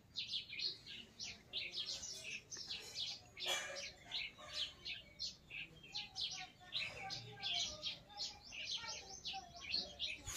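Birds chirping: a dense run of quick, overlapping high chirps with hardly a pause.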